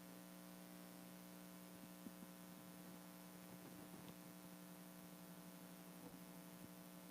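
Near silence: a steady electrical hum from the sound system, with a few faint small clicks.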